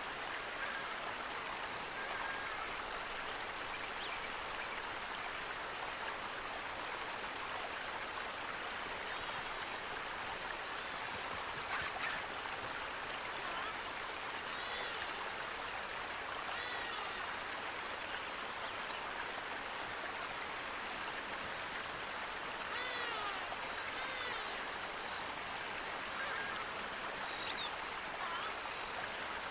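Flowing water rushing steadily, with short bird chirps over it several times in the second half and one brief sharp tick about twelve seconds in.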